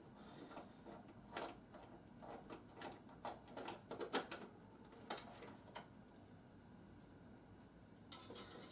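Light clicks and taps of a plastic toy being handled while its battery compartment is opened, a scattered run of them over a few seconds, then quiet.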